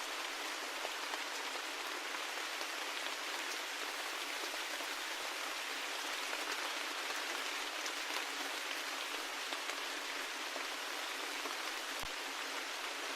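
Steady rain falling, an even hiss with scattered individual drops ticking, and a single soft low thud near the end.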